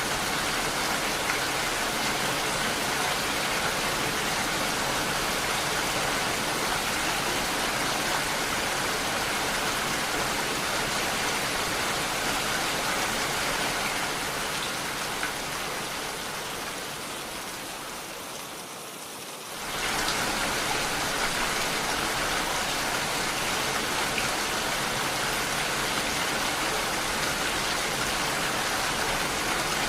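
Steady heavy rainfall, an even hiss of rain on surfaces. About two-thirds of the way through it fades gradually quieter, then cuts back in suddenly at full level, like a loop joining.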